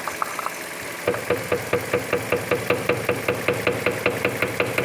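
Worn car steering box knocking rapidly and evenly, about five knocks a second starting about a second in, over a running engine. The knock is the sign of play in the steering box, which needs repair or replacement.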